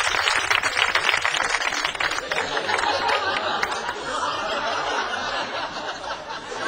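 Studio audience applauding, the clapping thinning out after about two and a half seconds into laughter and murmuring.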